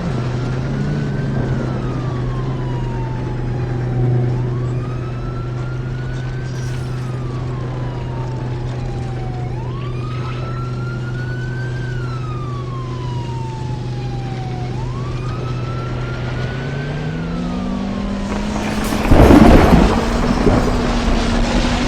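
A siren wailing in slow rise-and-fall cycles, about one every five seconds, over the steady hum of a vehicle engine. Near the end the engine note climbs as the vehicle accelerates, and a short loud burst of noise comes in.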